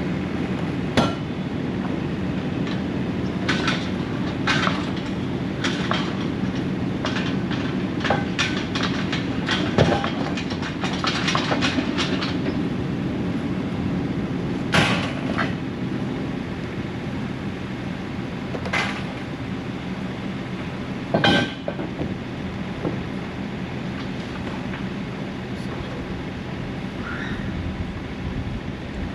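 An engine running steadily, with scattered sharp metal clanks and knocks, most of them in the first half and a few louder ones later.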